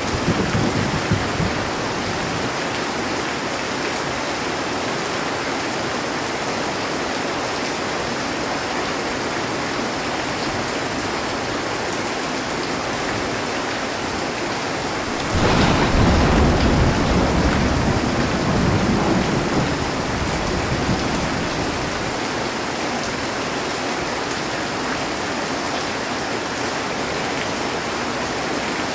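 Heavy rain drumming steadily on a metal roof. A low rumble of thunder fades out in the first moments, and about halfway through a louder thunderclap breaks in suddenly and rumbles away over several seconds.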